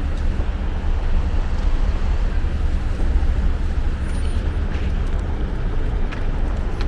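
Steady street traffic noise with a deep, continuous rumble.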